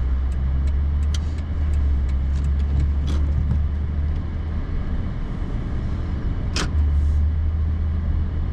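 Steady low drone of a truck's engine and tyres heard from inside the cab while driving on a snowy road, with a brief sharp swish about two-thirds of the way through.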